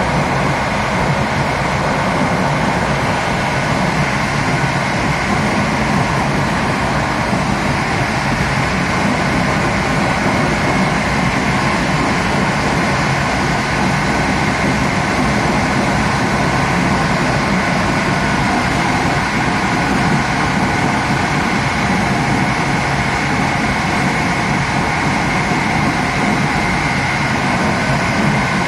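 Last coach of a passenger train running steadily at speed, heard from its rear end: a continuous rumble of wheels on rails with a faint steady high whine.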